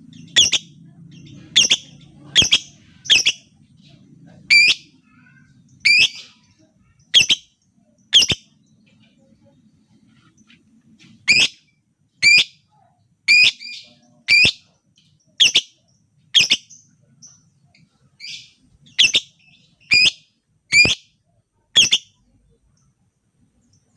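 A lovebird giving short, sharp, shrill single calls about once a second, with a pause of a few seconds midway.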